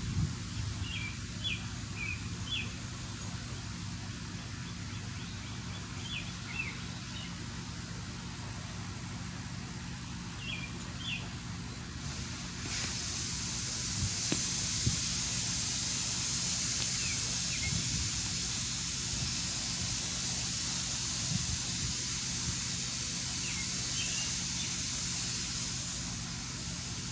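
Steady low machinery hum from an industrial plant, the grinding noise heard from outside, with small birds chirping now and then. About halfway through, a steady high hiss comes in and holds.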